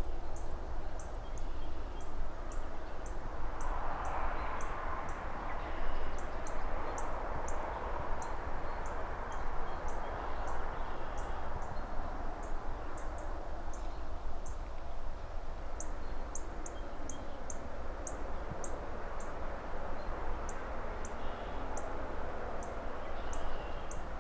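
City ambience: a bird repeating a short, very high chirp about once or twice a second, with a few pauses, and other birds chirping now and then. Underneath is a steady rushing haze of rustling trees and distant traffic that swells about four seconds in, over a low, steady rumble.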